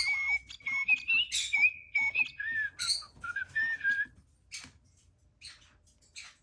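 Animatronic bird toy singing a chirpy whistled song: steady high whistles broken by quick chirps, dropping to a lower whistle about two and a half seconds in and stopping about four seconds in. Three short chirps follow.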